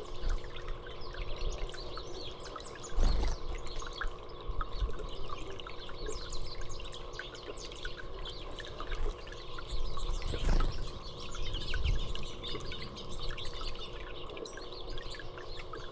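Small songbirds chirping and calling over and over, with water trickling in the background. Two dull low thumps, about three seconds in and about ten seconds in.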